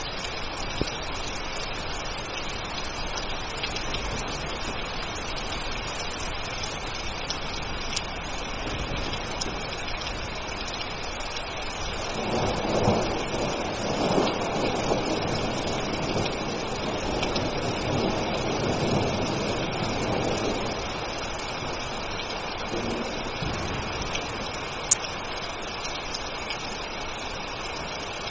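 Steady rain falling, with a long rolling rumble of thunder swelling up in the middle and dying away after about nine seconds. A single sharp click near the end.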